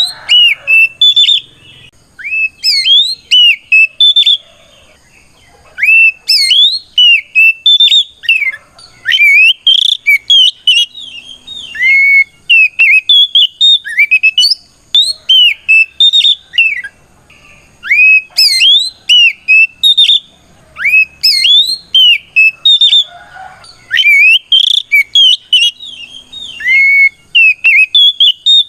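Oriental magpie-robin singing a loud, clear whistled song in bursts of quick rising and falling notes with short pauses between them. It is the bird's challenging song to a rival, the kind kept to provoke other magpie-robins into answering.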